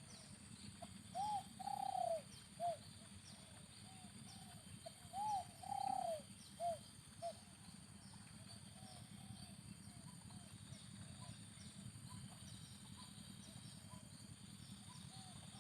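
Spotted dove cooing: two loud phrases of several arching coos a few seconds apart, then fainter coos, with thin high chirps repeating over a steady high hiss.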